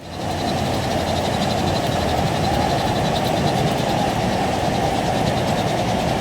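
Floodwater rushing past in a torrent: a steady, heavy roar of water.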